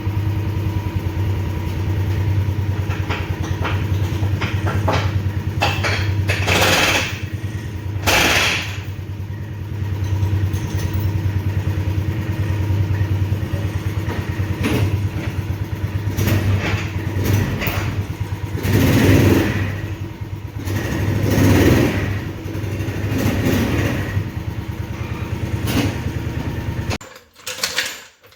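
A vehicle engine running steadily, with several brief louder surges, then shut off abruptly about a second before the end.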